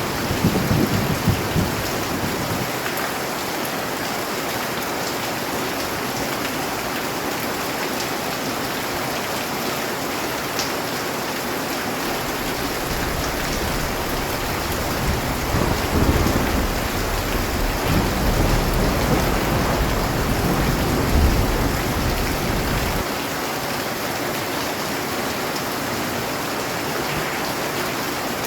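Steady, heavy rainfall hissing, with a low rumble of thunder rolling in the first couple of seconds and again for about ten seconds in the middle.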